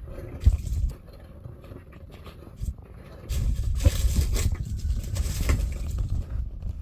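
Dry leaves and twigs rustling and crackling as a vervet monkey sifts through a foraging box, growing louder and busier for about three seconds from a little after three seconds in.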